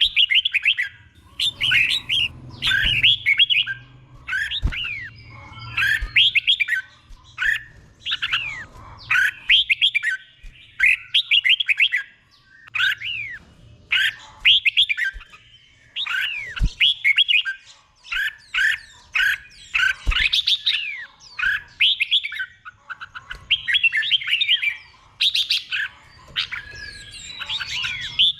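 Red-whiskered bulbul singing in doubled phrases: short runs of quick, falling whistled notes, repeated every second or two with brief gaps. A few soft low knocks come in between.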